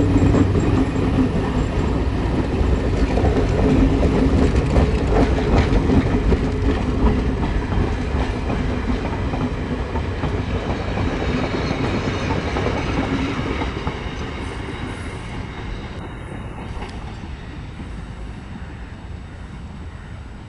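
A diesel-hauled passenger train, a WDG4D Class M11 locomotive with its coaches, running past, its wheels clattering on the track. The sound fades steadily over the second half as the train moves away.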